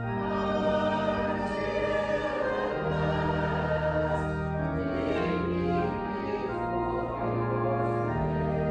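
A choir singing slow, sustained chords with instrumental accompaniment: sacred choral music.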